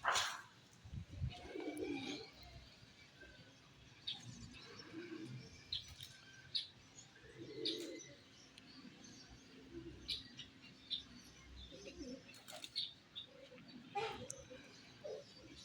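Pigeons cooing in low, repeated calls, with small birds giving short, high chirps throughout. Brief flurries of wing flaps come in a couple of times near the end.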